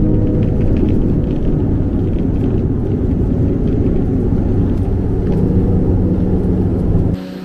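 Loud, steady rumble of a vehicle in motion, with engine and travel noise mostly low in pitch; it cuts off abruptly about seven seconds in.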